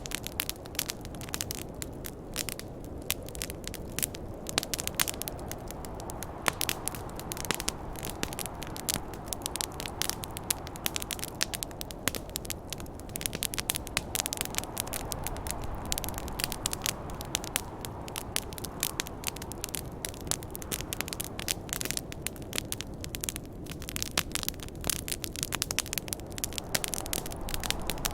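Wood campfire crackling and popping, many sharp snaps at irregular moments, over a steady low rush of snowstorm wind that swells and eases slowly.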